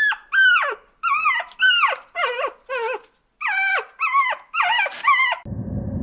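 An animal giving a rapid series of about ten short, high calls, each falling in pitch. About five and a half seconds in they stop and a steady low rumble takes over.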